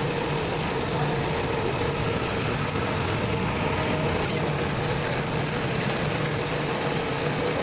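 Toyota car engine idling steadily, with an even, unbroken running sound.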